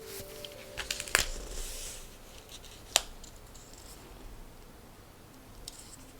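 Paper and stationery being handled on a desk: two sharp clicks, about a second in and again near three seconds, with paper rustling and sliding between them and a few softer ticks.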